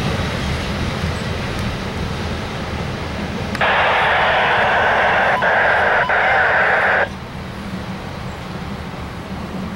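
A train rumbling low and steady. About three and a half seconds in, a scanner radio opens with a burst of static lasting about three seconds, then cuts off abruptly.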